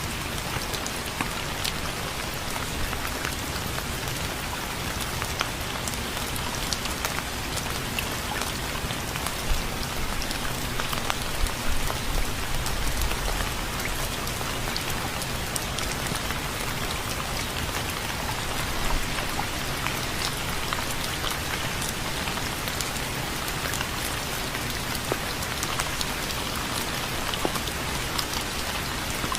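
Steady rain falling, with dense pattering drops striking a surface and a brief low rumble swell about halfway through.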